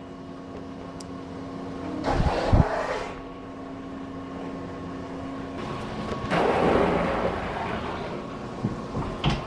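Powered knife-grinding wheel running with a steady hum, and two stretches of louder grinding: about two seconds in, and again from about six to eight seconds.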